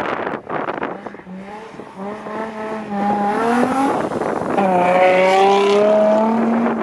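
Ford Escort Mk2 rally car's engine at high revs, its pitch climbing as it accelerates. About four seconds in there is a brief gap and the pitch drops: a gear change. Then it pulls up again. Wind buffets the microphone in the first second.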